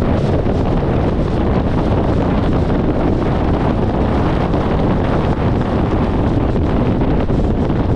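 Steady, loud wind rush on a camera microphone mounted outside a 1994 VW Gol moving at highway speed, with road and tyre noise beneath it.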